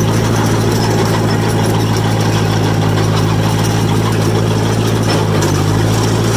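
John Deere 1010 crawler engine running at a steady speed while the machine travels on its steel tracks over gravel, with a slight change in engine note near the end. The engine is running rich.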